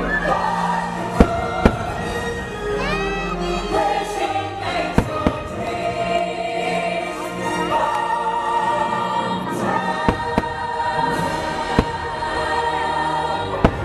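Fireworks show soundtrack with a choir singing, with sharp firework bangs going off every second or two.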